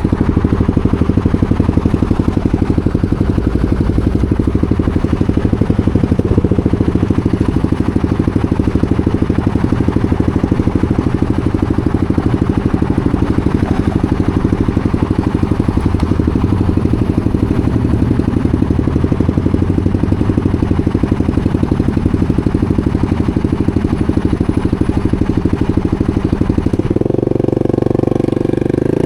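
250cc supermoto motorcycle engine running at a steady, even speed, its note shifting near the end.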